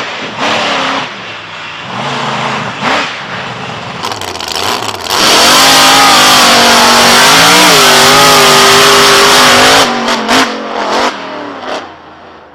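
Large racing engine revved in several short blips, then held wide open for about five seconds, very loud, its pitch wavering as the load changes, before a few quick blips and a drop off the throttle near the end.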